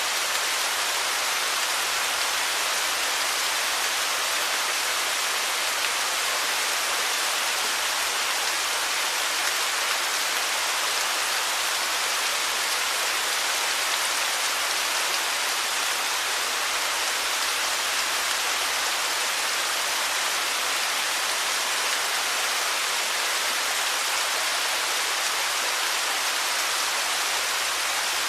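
Running water rushing steadily, an even hiss with little low rumble and no changes.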